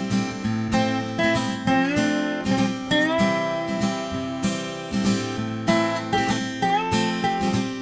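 Acoustic guitar music, strummed and picked in a steady rhythm, with notes that slide in pitch.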